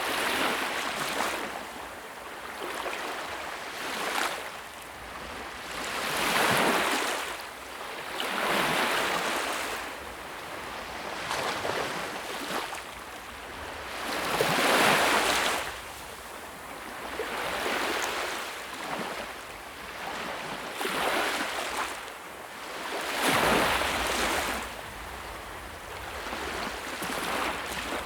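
Sea waves breaking on the shore, one after another, each a rushing swell that rises and washes away every two to four seconds.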